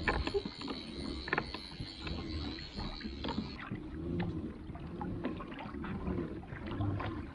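Water lapping and splashing against a kayak hull, with small scattered knocks and clicks.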